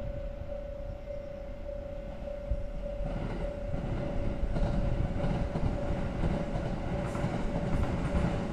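JR Kansai Main Line 211 series electric train approaching, its running noise on the rails growing louder from about three seconds in.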